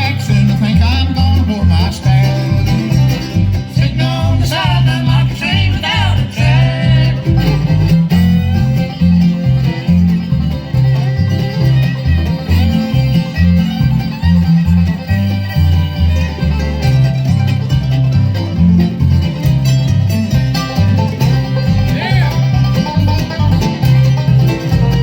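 Bluegrass band playing live, with banjo and guitar picking over a steady pulse of low notes.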